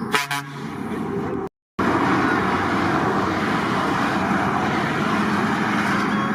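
A truck air horn sounds briefly at the start. After a short break it gives way to the steady, loud engine and road noise of heavy trucks driving past.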